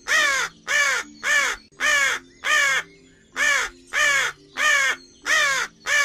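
Raven calling: a run of about ten short caws at roughly two a second, with a brief pause midway.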